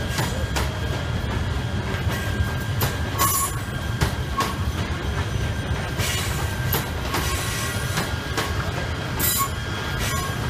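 KTM passenger train rolling past: a steady low rumble of wheels on rail, irregular sharp clicks at the rail joints, and a thin, steady wheel squeal held throughout.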